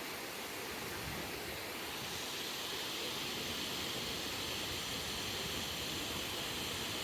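Steady rush of falling water, an even hiss that grows a little brighter and louder about two seconds in.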